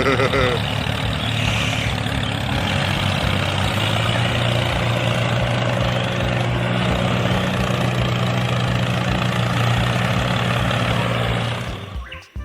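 A vehicle engine running steadily at a low, even pitch, stopping about twelve seconds in.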